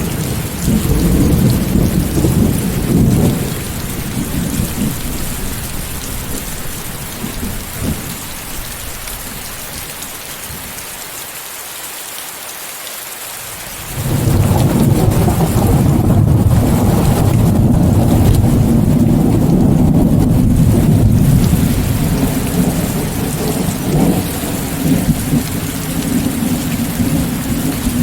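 Steady rain hiss under rolling thunder. A rumble dies away over the first few seconds, then about halfway a new peal breaks in suddenly and rumbles on for several seconds, with a few sharper cracks near the end.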